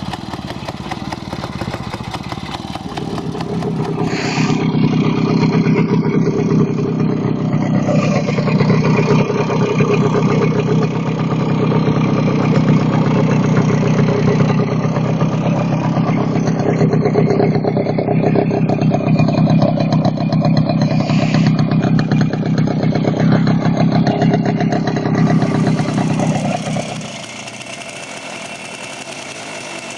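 Motorcycle engine running, louder and revved from a few seconds in, then dropping back to a quieter run near the end.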